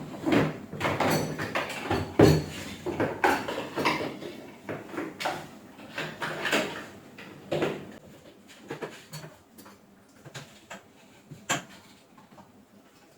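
Irregular knocks, clicks and clatter of objects being handled and set down on a hard surface, busy at first and then thinning out to a few faint clicks after about eight seconds.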